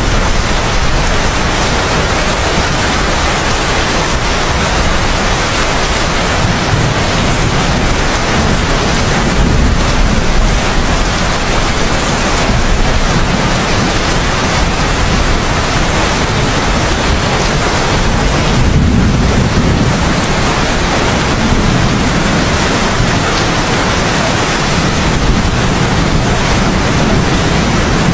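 Steady heavy rain, a dense even hiss, with a low rumble of thunder swelling and fading beneath it now and then.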